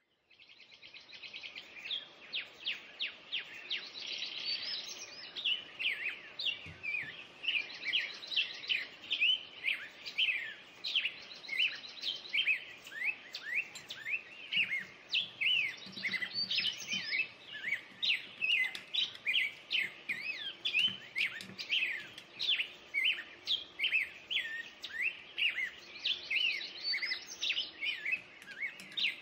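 Birds chirping and singing: a dense, unbroken stream of quick rising and falling chirps and trills, fading in at the start.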